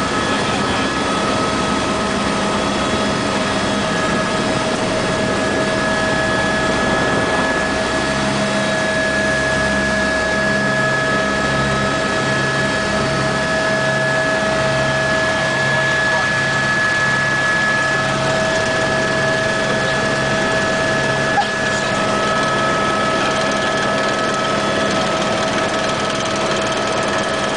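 An engine running steadily, an even drone with a constant high whine over it and no change in speed.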